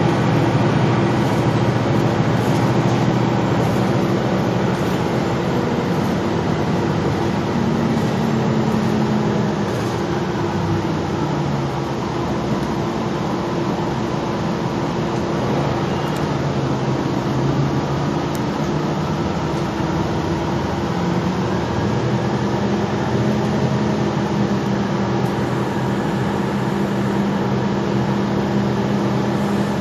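Gillig Low Floor transit bus on the move, its engine and drivetrain droning steadily with road noise, with no HVAC blower running. The hum shifts up and down in pitch as the bus speeds up and slows, rising around a third of the way in, dropping, then rising again in the latter half.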